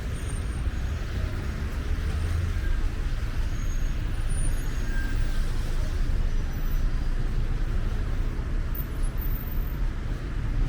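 City street traffic: cars and other vehicles running past on a wet road, a steady low rumble with a hiss over it.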